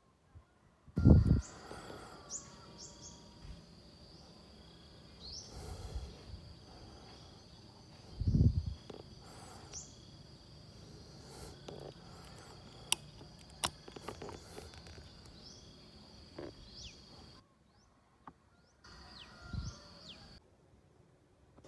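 Small birds chirping in the tree canopy, short quick calls over a steady high-pitched drone, with two loud low thumps, one about a second in and one about eight seconds in.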